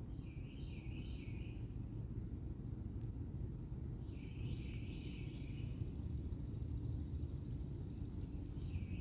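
Songbirds singing over a steady low outdoor rumble: short warbled phrases near the start and again about four seconds in, then a long, rapid, even trill from about five seconds in until just past eight.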